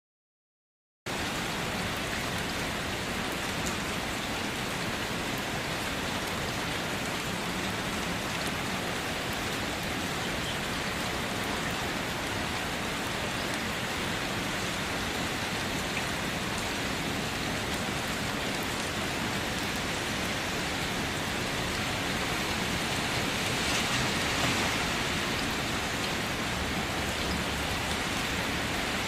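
Steady rain falling, an even hiss that cuts in suddenly about a second in and swells briefly near the end.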